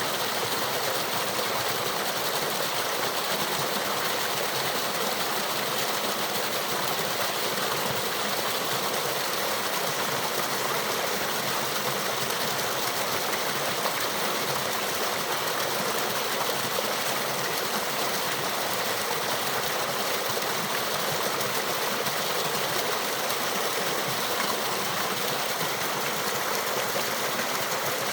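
Small waterfall and rill, water splashing and rushing in a steady hiss.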